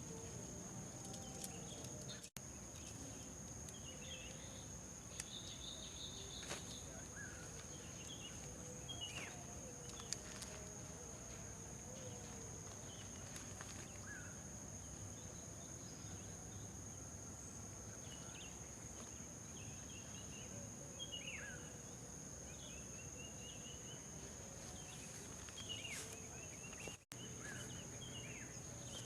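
Forest ambience: a steady high-pitched insect drone, with scattered short bird chirps and calls.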